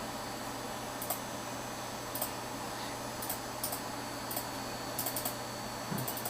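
Computer keyboard keys clicking: a dozen or so scattered, irregular keystrokes over a steady low electrical hum.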